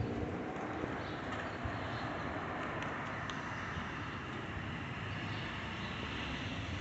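Boeing 777 freighter's jet engines running: a steady, even rushing noise.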